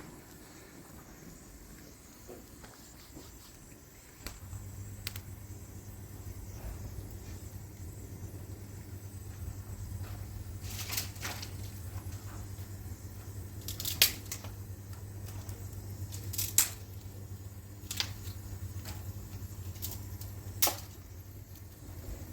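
Washing machine's electric motor humming steadily, starting up about four seconds in. Several sharp clicks and knocks come in the second half, the loudest around the middle.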